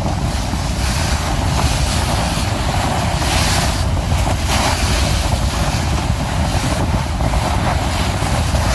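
Steady wind buffeting the microphone over the rushing water and running noise of a large motor cruiser under way.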